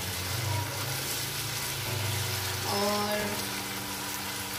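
Chicken, tomato and grated carrot sizzling in a wok on a raised gas flame as a spatula stirs them. A brief word is spoken about three seconds in.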